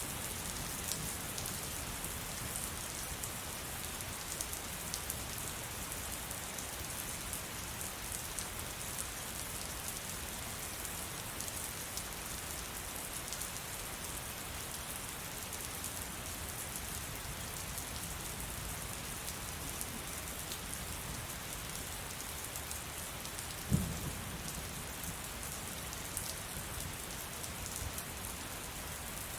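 Steady heavy rain falling, an even hiss of drops. Late on, a single sudden sharp crack with a brief low tail.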